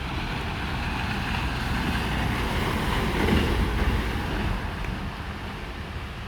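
Steady outdoor noise of rain and wind buffeting the microphone, with a deep rumble that swells to a peak about three seconds in and then eases.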